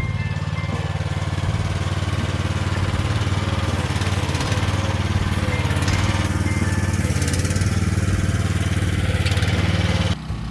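Small excavator's engine running steadily close up, a low, even, rapid chugging. It drops away abruptly near the end.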